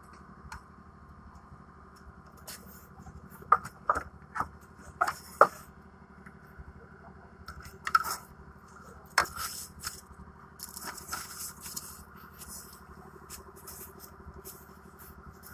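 A series of irregular sharp clicks and scrapes from hand work on the air conditioner, over a steady low hum.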